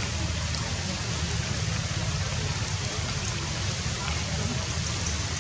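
Steady rain falling on forest foliage, an even hiss with a low rumble underneath and no let-up.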